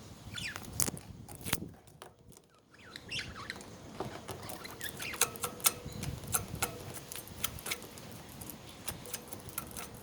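Pet budgerigars with a few short chirps among many sharp clicks and taps.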